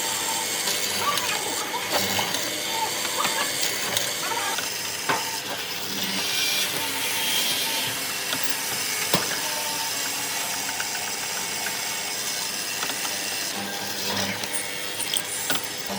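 Woodworking tool noise: a steady hissing work sound, loudest in the middle, with a few sharp knocks.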